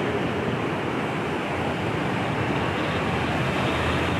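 Rain falling steadily during a thunderstorm: an even hiss with no thunder or other distinct sounds.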